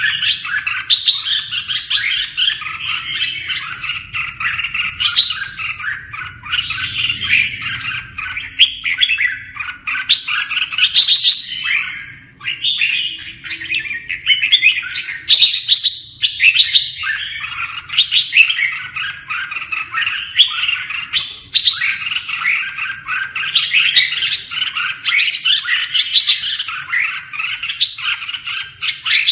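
Red-whiskered bulbuls singing without a break, a dense run of quick chirping notes.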